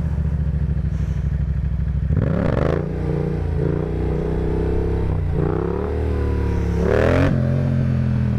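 Motorcycle engine ridden under throttle, its note rising three times: about two seconds in, midway, and near the end, where the throttle is shut and the pitch drops quickly.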